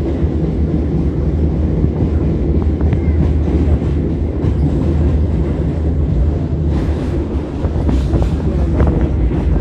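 Suburban electric train running along the track: a steady, loud low rumble with occasional faint clicks and rattles.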